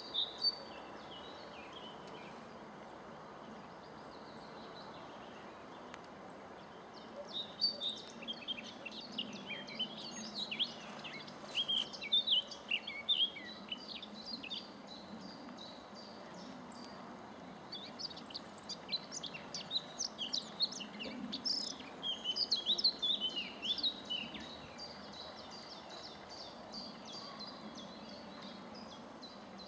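A small songbird singing in two long runs of quick, high chirping notes, the first starting about seven seconds in and the second about seventeen seconds in, over a steady low background hiss.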